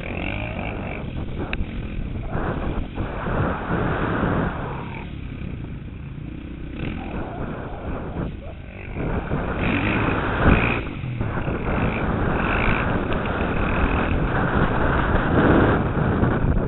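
KTM 450 SX motocross bike engine, heard from a helmet-mounted camera, revving up and dropping back again and again as the rider accelerates and backs off around the track.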